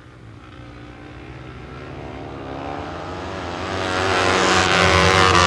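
Several flat-track racing motorcycles accelerating hard, their engines revving higher in pitch and getting steadily louder as the pack draws near.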